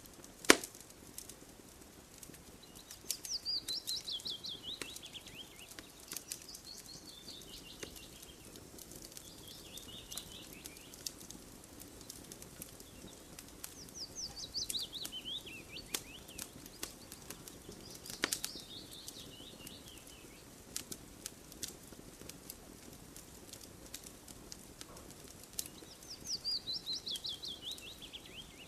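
Crackling campfire with sharp pops, the loudest just after the start and another about two-thirds of the way through. Over it, a songbird sings a fast run of notes dropping in pitch three times, roughly every eleven seconds.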